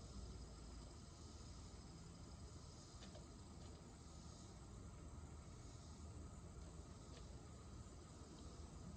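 Faint, steady, high-pitched insect chorus, an unbroken trill that holds one pitch, with a couple of soft ticks during it.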